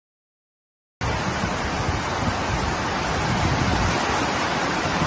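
Heavy rain pouring down in a steady, dense hiss, starting abruptly about a second in.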